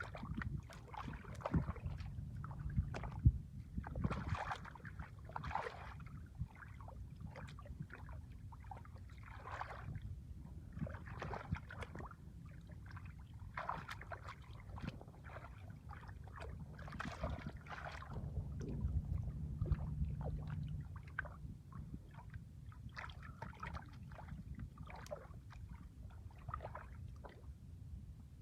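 Irregular splashing and sloshing of shallow water, in short bursts, over a low steady rumble.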